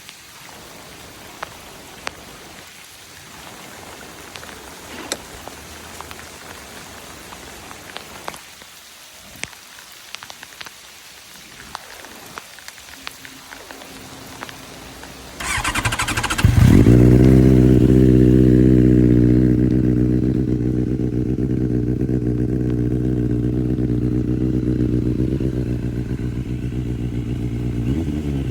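Quiet at first with scattered light taps. About halfway through, the starter cranks for a second and the QJMotor SRK 600's inline-four catches loudly, then settles into a steady idle through an Akrapovic exhaust. A small blip of the throttle comes near the end.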